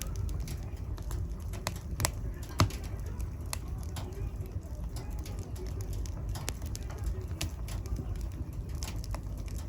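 Wood fire in a fireplace crackling, with scattered sharp pops over a low steady rumble of the flames. The loudest pops come about two seconds and two and a half seconds in.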